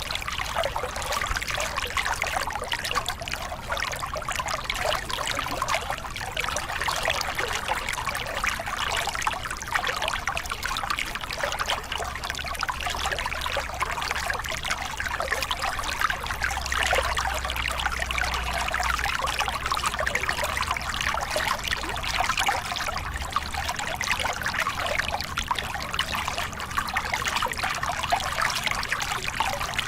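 Small river cascade: water pouring and splashing over rocks in a steady, even rush.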